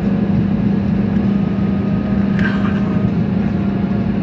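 Steady cabin noise of a jet airliner: a loud, even drone of engines and rushing air with a constant low hum. A brief, brighter sound cuts in about two and a half seconds in.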